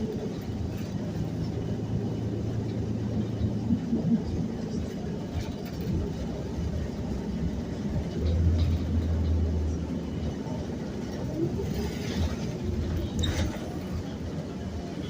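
City transit bus riding along, heard from inside: a steady low engine and road rumble with a deeper hum that swells about halfway through.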